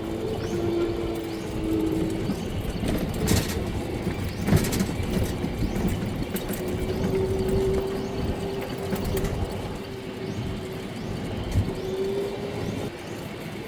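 Low rumble of a moving vehicle with a steady whine that wavers slightly in pitch, and a few sharp clicks and knocks.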